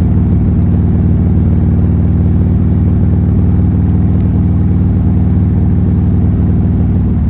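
Buell Lightning XB12S's 1203 cc air-cooled V-twin running at a steady engine speed through an aftermarket D&D exhaust as the motorcycle cruises.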